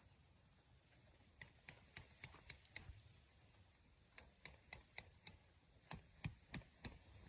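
Three quick runs of sharp clicks, four or five in each run at about four clicks a second.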